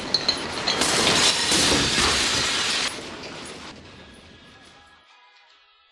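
Glass and dishes rattling and shattering in earthquake shaking, a dense clatter that is loudest for the first few seconds and then dies away.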